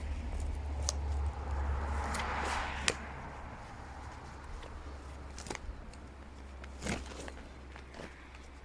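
Scattered light clicks and knocks with some rustling, and a soft hissing swell about two seconds in, over a steady low rumble.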